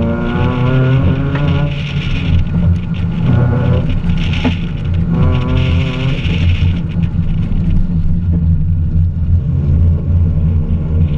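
Mazda3's 2.0-litre four-cylinder engine, fitted with an aftermarket intake and header, revving hard under acceleration, its pitch climbing three times with short lifts in between. Heard from outside the car on a door-mounted camera, over a steady low rumble and a higher hiss that comes and goes.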